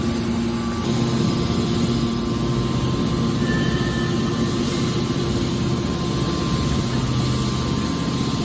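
Hydraulic scrap metal baler running: a steady drone from its hydraulic pump and motor.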